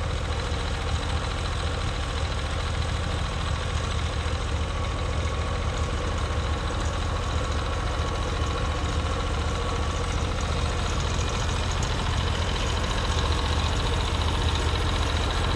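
Norwood MX34 portable bandsaw mill's engine running steadily.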